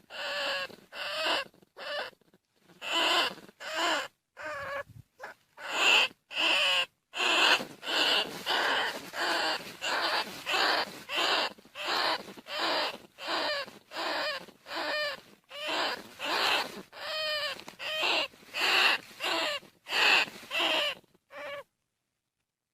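Greater bandicoot rat calls: short, squealing cries with a wavering pitch, repeated about twice a second with a few brief pauses. They stop abruptly near the end.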